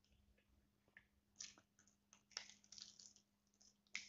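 Close-up mouth sounds of biting and chewing fried chicken: faint, short crackly crunches every second or so, with louder ones around the middle and near the end.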